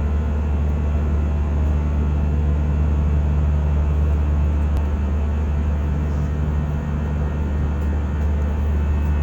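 Steady low drone inside an airliner cabin, from engine and airflow noise.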